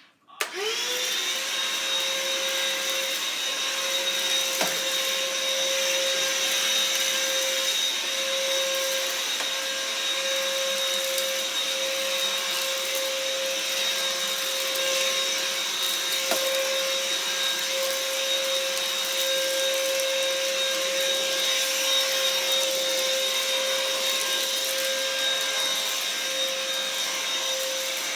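Black & Decker vacuum cleaner switching on and spinning up to speed, its motor rising quickly to a steady high whine, then running evenly. A couple of faint ticks sound over the motor.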